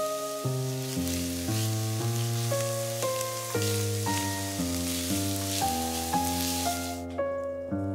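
Finely chopped shallots sizzling in hot olive oil in an enamelled cast-iron pot as a silicone spatula stirs them; the sizzle cuts off about a second before the end. Background music of evenly paced notes plays throughout.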